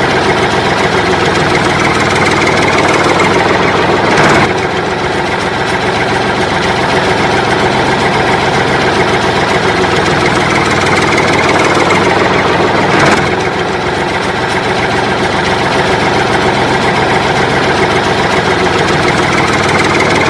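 A loud, steady engine sound running without a break, with a brief louder swell about four seconds in and again about thirteen seconds in.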